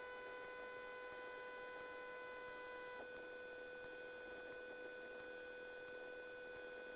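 Several steady electronic whining tones at different pitches, with no engine heard; one high tone has just risen into place, and two of the tones cut off about three seconds in.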